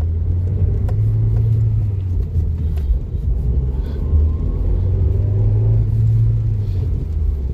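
Low, steady engine and road rumble from a manual car driving slowly in the rain, revs held under 3,000 rpm, swelling and easing a little, with a few faint clicks.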